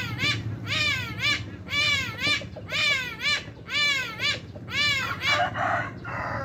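A bird calling over and over, about two calls a second. Each call rises and then falls in pitch. Near the end there is a short harsh, rasping call.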